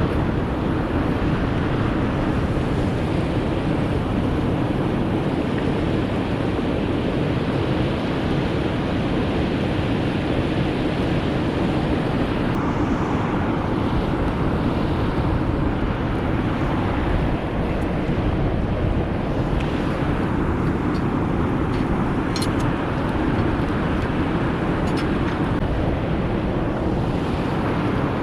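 Steady rushing noise of wind buffeting the microphone, with a few faint sharp ticks about twenty-two to twenty-five seconds in.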